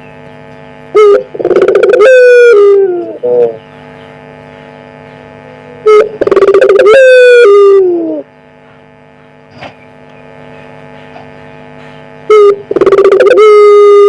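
A puter pelung dove (domestic ringneck dove) cooing loudly three times, each call a short note followed by a long drawn-out coo that drops in pitch at the end. A steady faint hum runs beneath.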